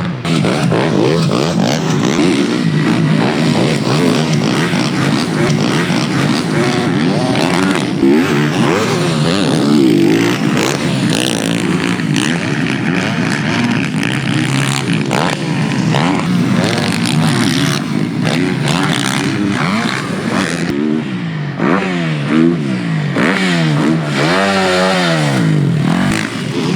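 Yamaha YZ450F motocross bike's single-cylinder four-stroke engine being ridden hard, its pitch rising and falling with the throttle and gear changes, with several quick rev sweeps near the end.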